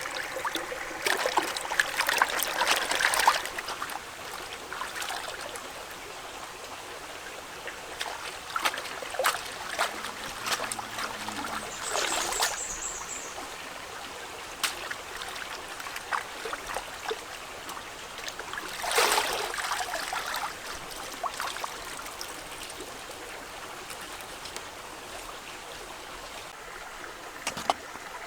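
Water trickling steadily, with louder splashing bursts now and then.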